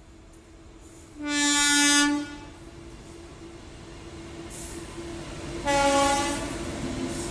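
Train horn sounding two blasts, the first about a second long and the second a little shorter, over the rumble of a train that grows louder as it approaches.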